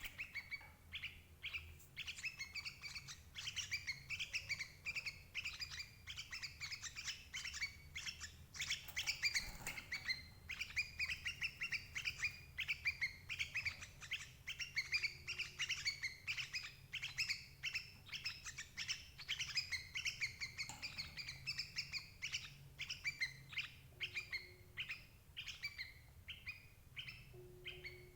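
Yellow-vented bulbul (cerukcuk) calls: a dense, unbroken run of short, quick chirps, the kind of recording played as a lure to trap adult bulbuls.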